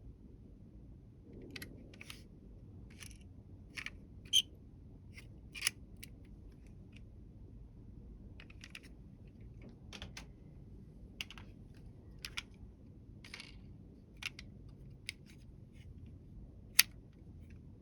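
Small toy vehicles being handled: irregular light clicks and taps, with a few sharper knocks, the loudest near the end.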